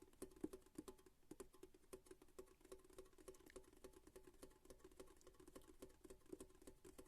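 Quick, light ASMR tapping on a hard object, about five or six soft taps a second, with a faint hollow ring under them.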